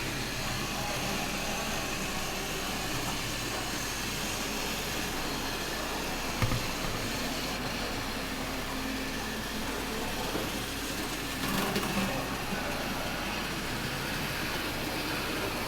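Steady mechanical whirring hum, with a sharp click about six and a half seconds in and a short clatter near twelve seconds.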